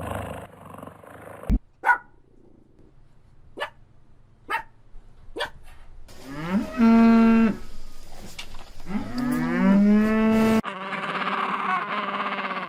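Cow mooing twice, two long calls that rise and fall in pitch, after a few sharp clicks. Near the end a different, denser pitched sound cuts in abruptly.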